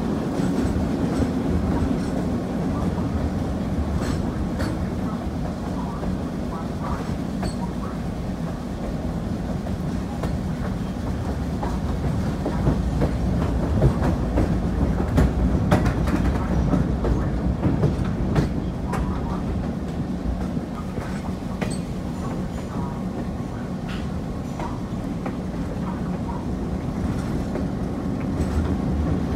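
Passenger train in motion heard from on board: a steady rumble of wheels on rails with scattered clicks and knocks from the track, busiest and loudest about halfway through.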